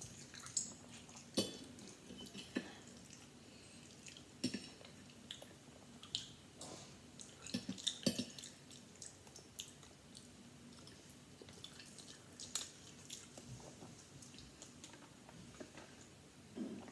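Close-up chewing and mouth sounds of eating eggs with cheese, with scattered sharp clicks of a metal fork against the dish. A sip from a plastic water bottle near the end.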